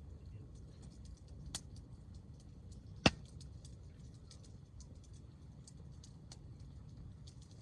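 Wood fire of bagged hardwood logs crackling, with scattered small ticks, a sharp pop about one and a half seconds in and a loud snap about three seconds in.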